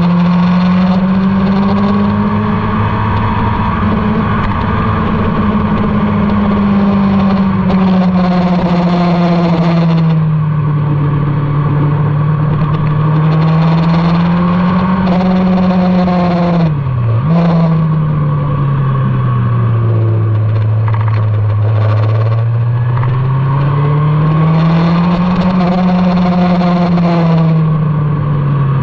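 Motorcycle engine lapping a race track, its revs rising and falling in long sweeps as it accelerates and slows through the corners, with one brief sharp drop and recovery in revs about two-thirds of the way through.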